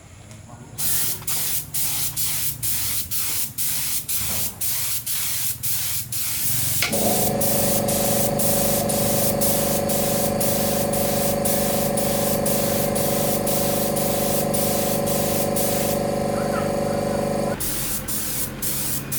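Pressurised spray hissing in rapid short bursts, about two or three a second. About seven seconds in it turns into one continuous spray with a motor running steadily underneath for about ten seconds, then goes back to short bursts.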